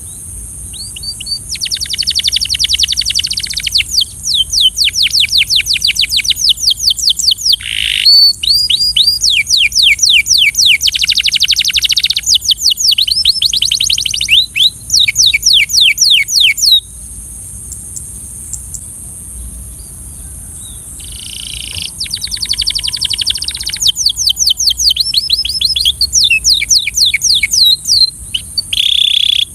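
Canary singing in fast trills of rapidly repeated sweeping notes, phrase after phrase, breaking off for about four seconds about halfway through before starting again. A steady high-pitched hiss runs beneath the song throughout.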